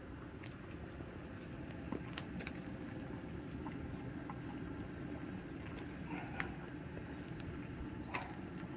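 Fish broth boiling in an iron cauldron over a wood fire: a steady low bubbling, with scattered sharp crackles and ticks.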